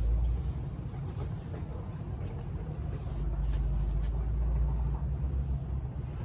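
An engine idling nearby with a steady low rumble, growing a little louder between about three and five seconds in.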